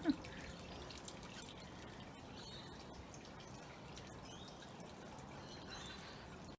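Steady outdoor wet-weather sound of water dripping and trickling, as rain and meltwater run off just after a hail shower.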